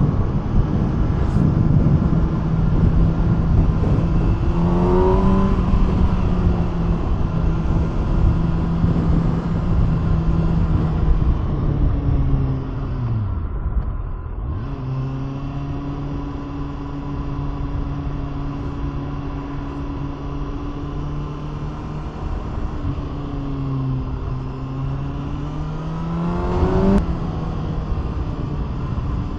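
2020 Kawasaki Ninja ZX-6R's inline-four running through an aftermarket SC-Project exhaust while riding, over wind rush. The revs climb and drop back about five seconds in, fall to a lower steady note around the middle, then climb and drop back again near the end.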